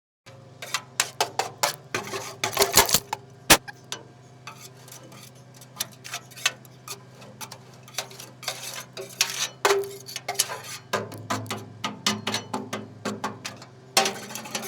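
Rocks and debris being knocked and scraped loose from a belly-dump trailer's gate: many sharp clicks, clanks and scrapes in irregular bunches, busiest a couple of seconds in and again near the end. Underneath runs a steady low hum.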